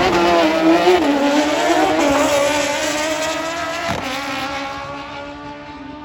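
Drag racing motorcycle engine at full throttle down the strip, its note holding high and fading steadily as the bike pulls away.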